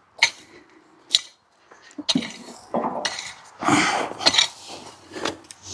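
A garden digging tool working through soil: a few sharp metallic clinks, then a run of scraping crunches as it cuts and lifts the earth.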